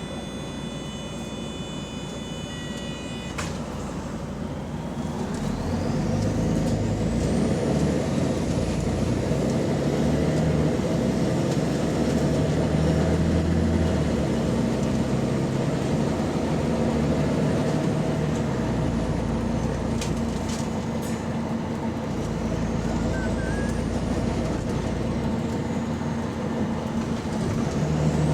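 Volvo B9TL double-decker bus with an exhaust leak, heard from on board, pulling away and accelerating through the gears of its ZF Ecolife automatic. A high whistle rises and falls in pitch as it speeds up. A steady high electronic tone sounds at the start and stops about three seconds in.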